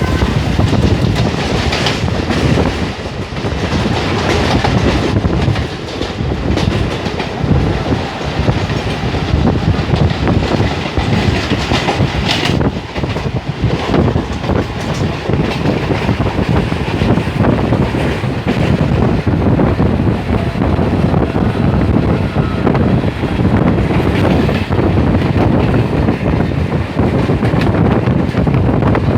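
Bombardier electric multiple unit (Mumbai suburban local) running at speed, heard from aboard: a steady running rumble with wheels clattering irregularly over rail joints.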